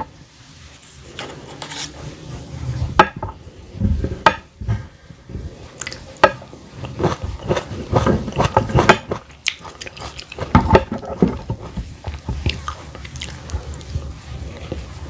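A person biting and chewing a meal of fried egg, broccoli, cauliflower and carrot close to the microphone, with many short sharp clicks and crunches at an irregular pace.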